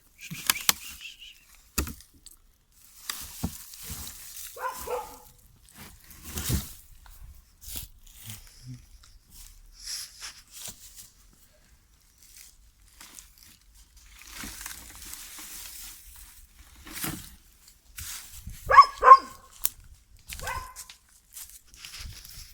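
A dog barks a few times: once about five seconds in, a louder double bark near the end, then once more. In between there are scattered clicks and rustling.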